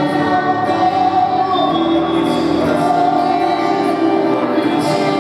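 Gospel worship music: a church vocal group singing long, held notes together over instrumental backing.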